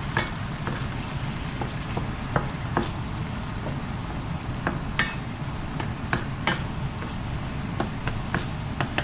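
Sauce cooking in a pan with a steady low rumble under it, and a metal spoon stirring and clicking against the pan every second or so.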